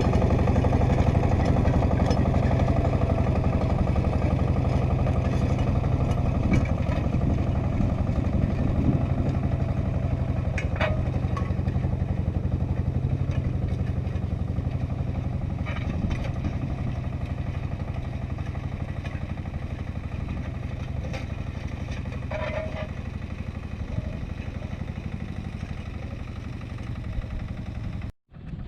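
Agria 8980 articulated tractor engine running steadily, with a few short clanks about 11, 16 and 22 seconds in. The engine sound grows slowly fainter, then cuts off suddenly near the end.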